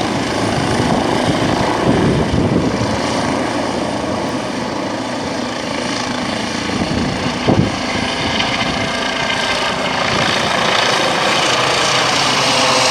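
Eurocopter EC135 T2 helicopter, with twin Arrius 2B2 turboshaft engines and its rotor, running steadily. A short thump about seven and a half seconds in.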